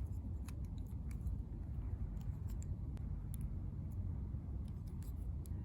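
Light, scattered clicks of a Beyblade top's plastic and metal parts being fitted and twisted shut by hand.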